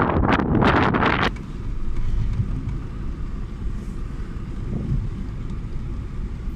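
Gusty wind buffeting the microphone, which cuts off abruptly about a second in; then the low, steady rumble of a car's engine running, heard from inside the cabin.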